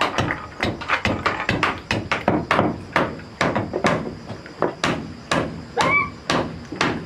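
Fast, slightly irregular knocks of a tool striking, about four a second, with a short rising animal call near six seconds.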